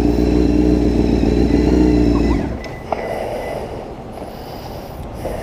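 Honda CBR sport bike engine with a loud exhaust running steadily, then switched off about two and a half seconds in. After it stops, a quieter outdoor background remains, with a single click a moment later.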